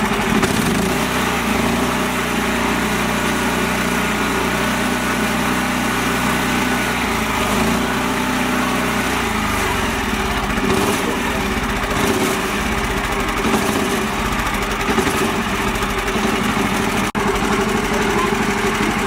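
Small mini-tractor engine running steadily, its pitch shifting and dropping about halfway through. The sound breaks off for a moment near the end.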